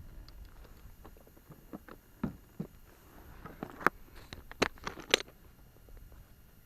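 Irregular small clicks and taps of fishing tackle being handled in a kayak, a few sharper knocks in the second half.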